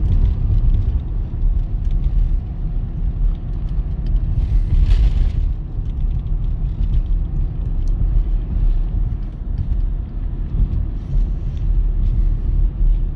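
Freight train rolling past with a steady low rumble and faint clicks from the wheels, with a brief hiss about five seconds in.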